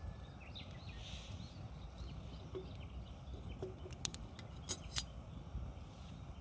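Wood campfire crackling, with a few sharp pops about four to five seconds in over a low steady rumble, and faint bird chirps early on.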